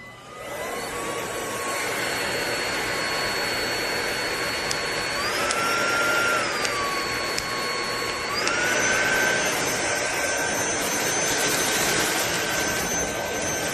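iXlion cordless stick vacuum running: a steady whine over a rush of airflow, starting up about half a second in. The pitch steps up for about a second near the middle, drops back, then steps up again and holds higher.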